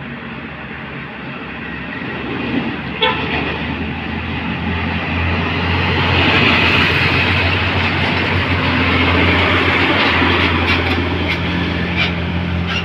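A heavy vehicle's engine running as it passes close by. The low hum and road noise build to their loudest about six seconds in and stay loud, with a few sharp clicks.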